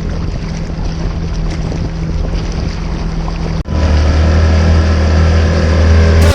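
A small boat's motor running steadily under way, with water and wind noise. It breaks off for an instant a little past halfway, then carries on louder.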